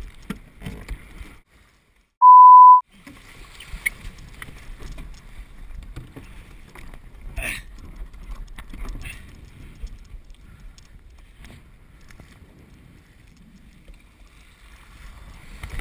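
Water and wind rushing past a Laser sailing dinghy under way in strong wind, with scattered knocks and splashes. About two seconds in, the sound drops out and a loud, steady, high beep sounds for about half a second.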